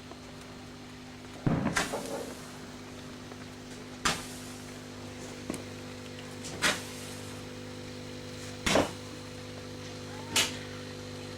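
Fireworks going off, with about six separate bangs a second or two apart. The first comes about a second and a half in as a short crackling burst, and a quick double bang comes later. A steady low hum runs underneath.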